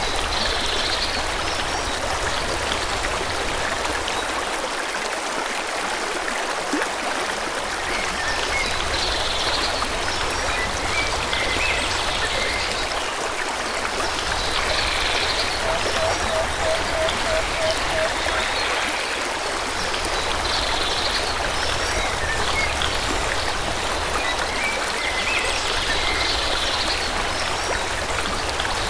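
Forest river or stream flowing steadily, with birds chirping briefly every few seconds over the water. About halfway through comes a short run of about eight low, evenly spaced notes.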